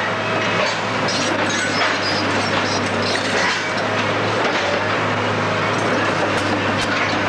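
Building demolition: continuous crunching and cracking of breaking debris, with a low steady hum underneath.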